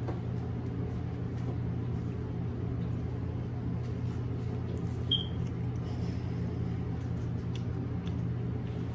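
A steady low machine hum, with a few faint clicks and a brief high squeak about five seconds in.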